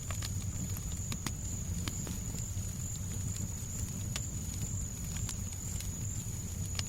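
Fireplace crackling, with sharp irregular pops spread over a low, steady noise bed and a thin steady high tone.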